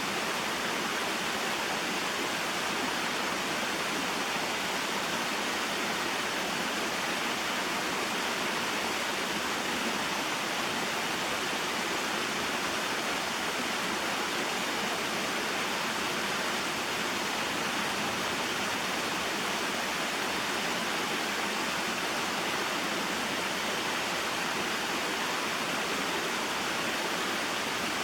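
Small waterfall and mountain stream: a steady, even rush of falling and flowing water that never changes in level.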